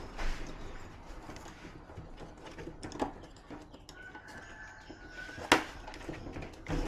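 Light clicks and rustles of TV screen parts being handled, with one sharp click about five and a half seconds in. A faint high whistle lasts over a second from about four seconds in.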